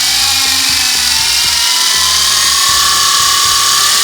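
Toy quadcopter drone's small motors and propellers running at high speed, a loud steady whine whose pitch creeps slowly upward.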